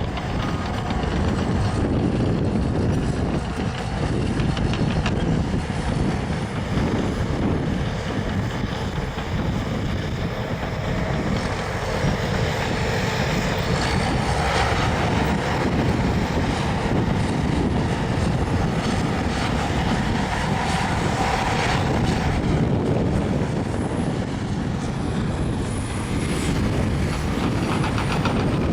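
Caterpillar crawler bulldozer working, its diesel engine running steadily under load and its steel tracks clattering. A higher whine joins in for several seconds in the middle.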